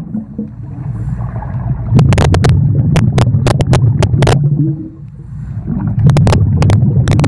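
Underwater sound through the camera: a steady low rumble with bubbling and sharp clicks, fitting a scuba diver's exhaled air bubbles in a pool. It swells about two seconds in, drops away around five seconds, then swells again.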